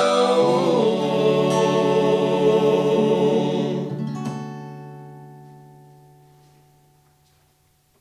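Male voices singing Alentejo cante hold the final chord of the song; about four seconds in the voices stop and a plucked string chord rings out, fading slowly to silence near the end.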